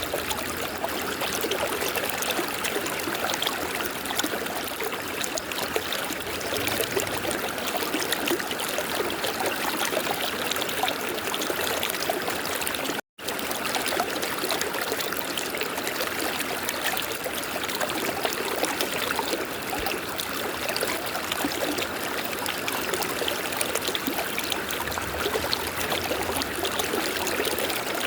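A river flowing, a steady rush of moving water; the sound cuts out completely for a split second about halfway through.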